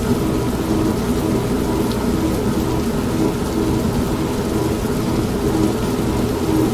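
An old manual washing machine running with a steady motor hum, mixed with steady rain and a low rolling rumble of thunder.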